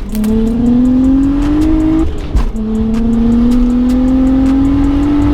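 BMW 335i's single-turbo N54 inline-six under hard acceleration: the engine note climbs through a gear, drops at an upshift about two seconds in, then climbs again more slowly through the next gear.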